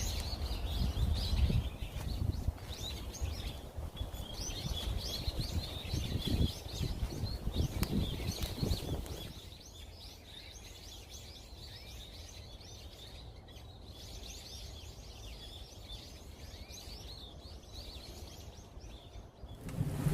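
Many forest birds chirping and calling together. A low rumble underlies the first half and drops away about nine seconds in, leaving the birdsong over a quieter background.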